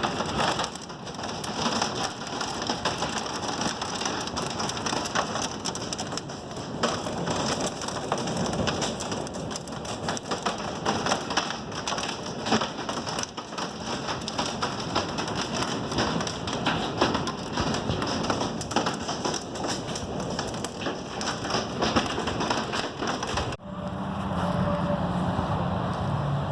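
Heavy rain pouring down, a dense steady patter thick with sharp drop impacts. About three seconds before the end it cuts off abruptly to a steady low hum.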